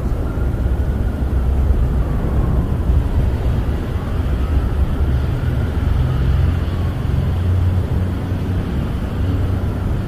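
Snowstorm wind buffeting a camper: a steady low rumble with a faint howl that slowly rises and falls in pitch.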